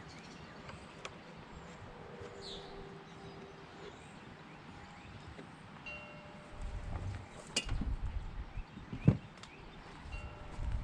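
Wind gusting against the microphone, rumbling in gusts from about two-thirds of the way in, with a sharp knock near the end. Faint chirps sound over a quiet background before the gusts start.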